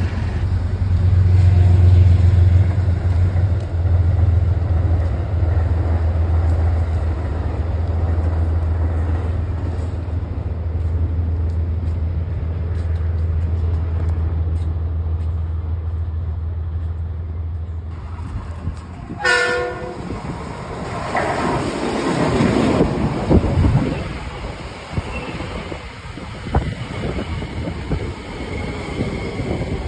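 A steady low engine drone for the first two-thirds, then cut off by a short train horn blast. A Metro-North M7A electric train then rumbles into the station, with thin high whining or squealing tones near the end.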